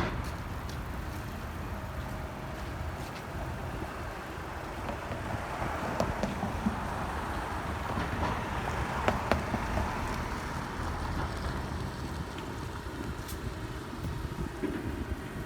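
Busy city street: road traffic going by, with wind buffeting the microphone as a fluctuating low rumble, and a few sharp clicks or knocks about six and nine seconds in.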